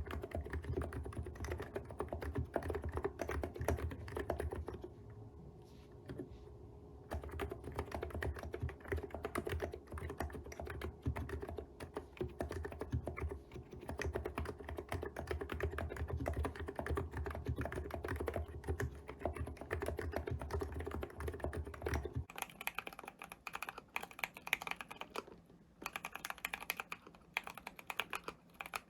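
Fast, continuous typing on a custom keyboard, with a short lull about five seconds in. About 22 seconds in the sound changes abruptly: the deep low end drops out and the keystrokes turn brighter and thinner.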